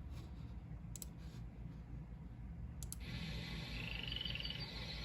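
Low hum and faint hiss of VHS tape playback, with a few faint clicks in the first three seconds. About three seconds in, the hiss rises and faint high chirps begin.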